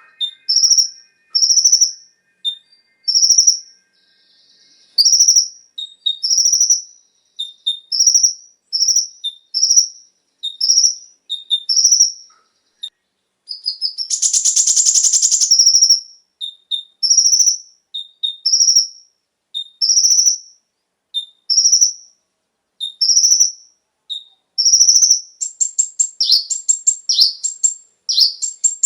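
Kolibri ninja (konin) sunbird song: short, high chirps repeated about once a second, broken about halfway by a buzzy trill of a second or two, then a quicker run of notes near the end.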